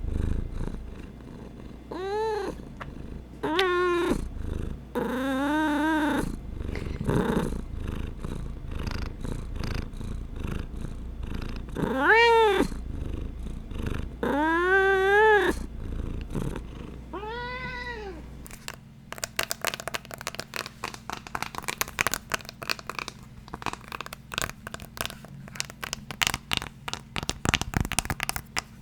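A cat purring close to the microphone, with several short rising-and-falling meows. About 19 seconds in the purring stops and rapid tapping and scratching on a hard object begins.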